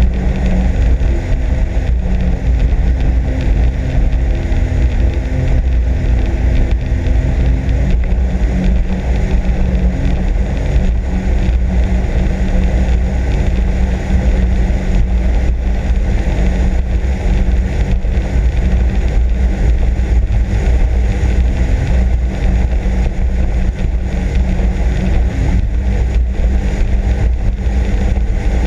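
Sea-Doo RXP-X 260 personal watercraft's engine running steadily under way, a continuous drone with the rush of wind and water over it.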